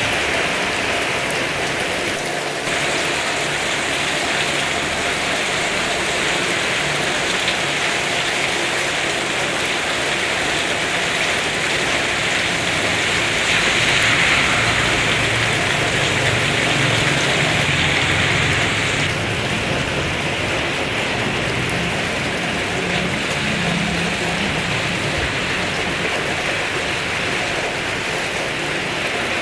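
Heavy rain falling steadily, swelling a little louder for a few seconds in the middle.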